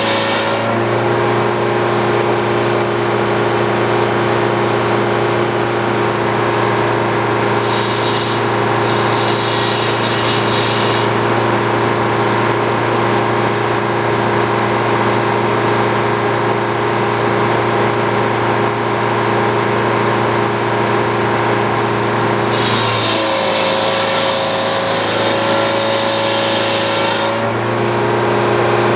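Engine driving an old Frick sawmill, running steadily. From about 23 to 27 seconds in, its pitch drops under load and a higher hiss comes up as the saw blade cuts the poplar log; there is a lighter stretch of the same hiss around 8 to 11 seconds.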